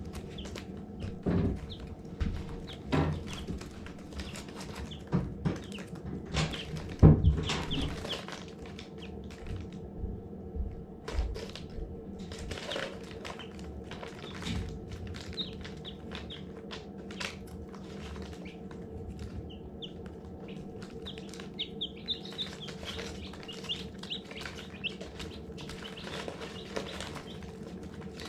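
Baby chicks peeping in short high chirps, with several sharp thumps in the first few seconds, the loudest about seven seconds in, over a steady low hum.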